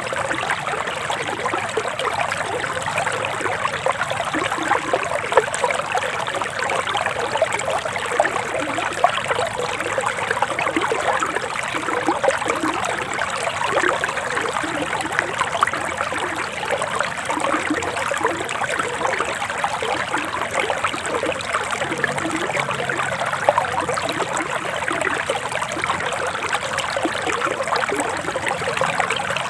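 Forest river water flowing and babbling steadily over stones, a continuous splashing trickle.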